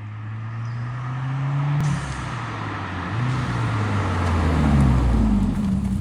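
Subaru WRX turbocharged flat-four engine pulling hard under acceleration: the revs climb, drop suddenly about two seconds in at a gear change, then climb again, growing louder toward the end.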